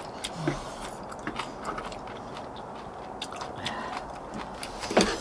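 Close-up eating sounds: a person chewing and biting into braised monkfish, with scattered soft clicks and a sharper click near the end.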